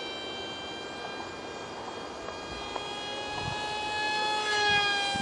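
Whine of an ultra micro RC plane's 8mm motor and direct-drive prop in flight: a steady high whine that grows louder about four and a half seconds in, then drops slightly in pitch as the plane passes by.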